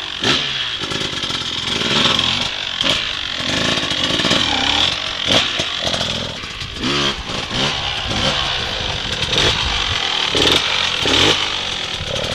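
Dirt bike engine revving up and down again and again in short rises and falls of pitch.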